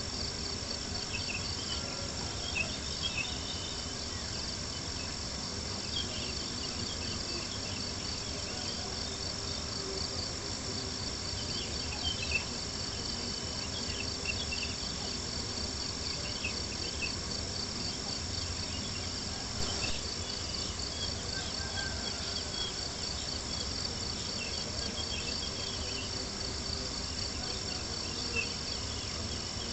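Crickets chirping steadily in a continuous pulsing chorus, with scattered small crackles and pops from a wood campfire.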